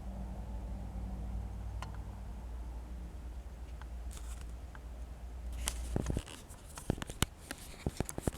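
A low steady hum that cuts off about six seconds in, then a run of light clicks and taps as small toy tractor parts and implements are handled.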